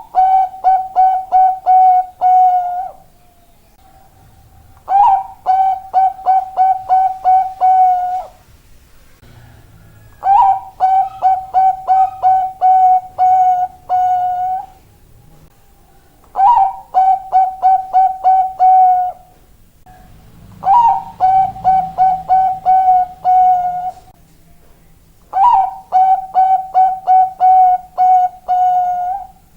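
Zebra dove (Bangkok-type perkutut) singing its cooing song six times. Each phrase opens with a higher note and runs into a quick string of about eight short coos, with a pause of about two seconds before the next phrase.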